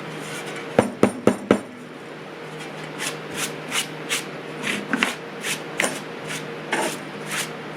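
Hand work on small metal recoil-starter parts: four sharp clicks about a second in, then a run of short scraping strokes, roughly two or three a second.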